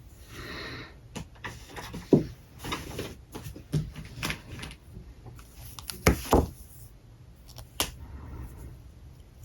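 Alcohol marker strokes scratching across paper, in several short passes, with sharp clicks and knocks in between from the markers being handled.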